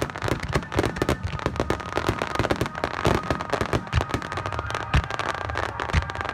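Fireworks heard close up: a dense, continuous crackle of many small bursts, with a few heavier booms about four, five and six seconds in.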